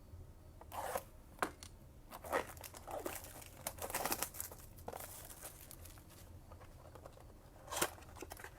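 A cardboard trading-card blaster box being torn open and its packs pulled out: a string of short, irregular tearing and crinkling rasps through the first five seconds, then one more near the end.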